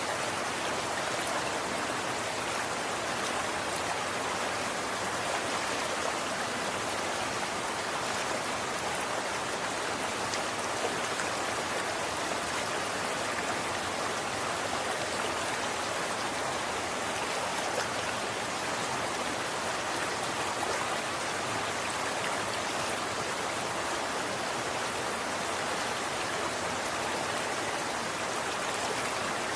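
Running water flowing steadily, an even rushing hiss with faint splashing ticks.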